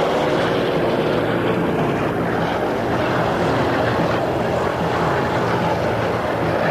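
Heavy truck diesel engine running steadily under load, a continuous drone whose pitch wavers slightly.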